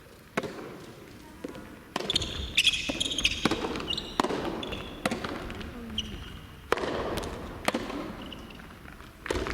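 Soft tennis rally: the soft rubber ball struck by rackets and bouncing on the court, a string of sharp hits spaced irregularly, with short high squeaks between them.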